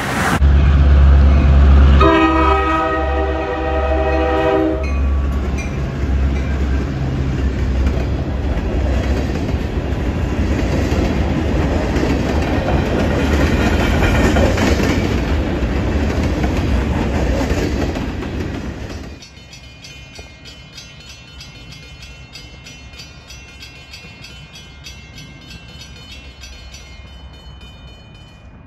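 Passing trains: a multi-note train horn chord sounds for about three seconds, with the heavy rumble and clatter of rail cars rolling by. About two-thirds of the way through the sound drops suddenly to a much quieter distant scene.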